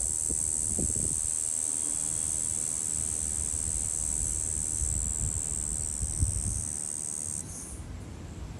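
Brown Bunyip cicada (Tamasa tristigma) calling: a steady, monotonous high buzz that stops suddenly about seven seconds in, leaving only a faint short pulse.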